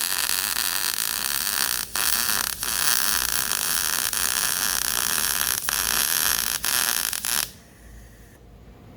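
Welding arc running steadily, with two brief breaks about two seconds in, then cutting off suddenly about seven and a half seconds in.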